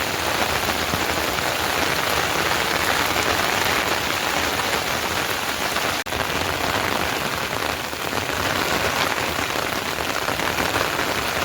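Heavy rain pouring steadily, a dense, even hiss with a momentary break about halfway through.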